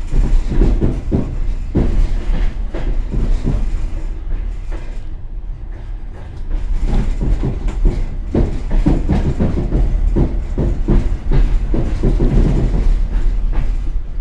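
Passenger train carriage running at speed, heard from its end vestibule: a steady low rumble with a dense, irregular clatter of wheels over the rails. The clatter thins out for a couple of seconds in the middle, then picks up again.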